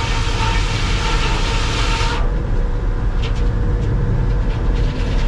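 Sawmill machinery running with a steady low drone under a loud hissing rush. The hiss cuts off suddenly about two seconds in, followed by a few sharp knocks as the machinery keeps running.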